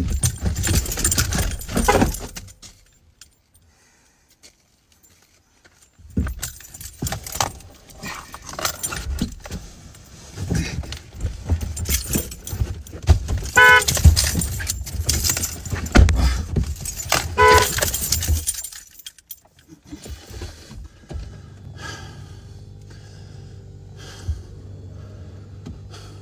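Keys jangling and clattering handling noise inside a car as someone climbs into the driver's seat and shifts about. There are two short electronic beeps partway through and a low steady hum near the end.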